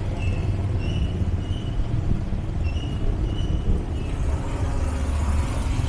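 City street traffic ambience: a steady low rumble of passing vehicles, with short high chirps recurring every second or so.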